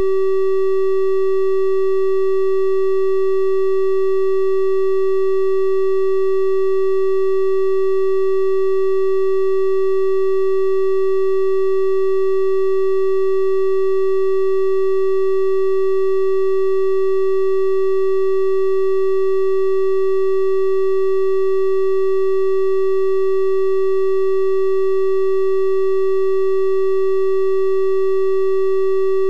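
A synthesized 384 Hz triangle-wave test tone, held steady and unchanging, with faint overtones above the main pitch.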